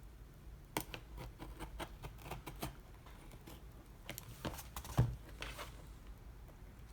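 Light, irregular clicks and taps from handling a heavy-duty stapler and its stickered wrapping on a table, with one louder knock about five seconds in.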